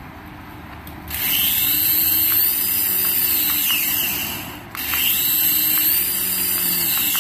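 Small electric motor of a toy whirring in two runs of about three seconds each, its pitch rising and then falling in each run.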